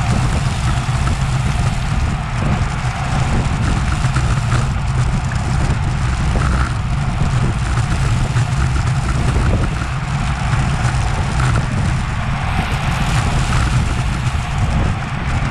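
Wind rushing over an action camera's microphone on a racing road bike: a steady low rumble with road and tyre hiss on top.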